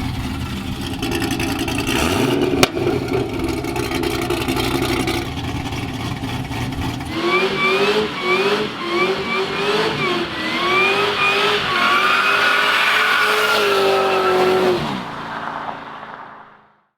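Supercharged 6.2-litre V8 of a 2013 Cadillac CTS-V, exhaust cutouts open, rumbling for several seconds with a sharp click. About seven seconds in it is held at high revs during a burnout, its pitch jumping up and down in short revs and then held steady, before dropping off as the throttle is lifted and fading out.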